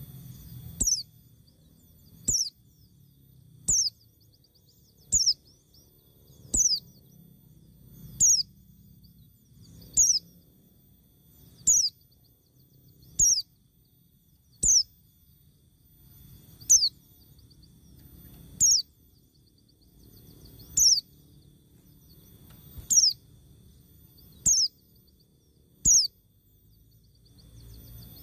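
A bird repeating one short, high call that falls in pitch, about every one and a half to two seconds, over a faint low rumble.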